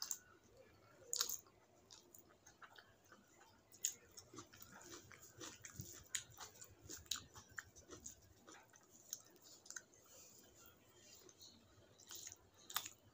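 Close-up chewing and wet mouth smacks of a person eating rice mixed with gima shak (leafy greens) by hand. Soft, irregular smacks and clicks, with a few sharper ones about a second in, around four seconds and near the end.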